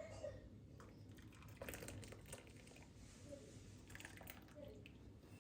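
Near silence with faint soft rustling and a few small clicks, like light handling of things.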